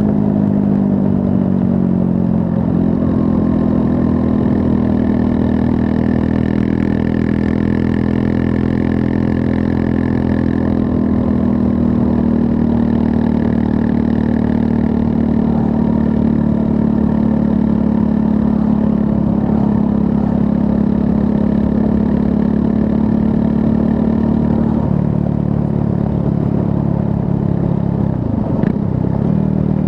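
Triumph Scrambler 400 X's 398 cc liquid-cooled single-cylinder engine running under way. The engine note holds steady for long stretches and drops in pitch at the start, again about 25 seconds in, and briefly near the end.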